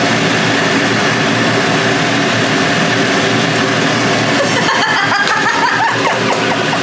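Tomato-and-pepper stew base frying in oil in a pot, a steady sizzle, as a wooden spatula stirs it, over a constant low hum.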